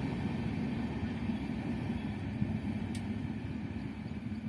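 Low rumble of a passenger train running along the track, slowly fading as it moves away, with a single sharp click about three seconds in.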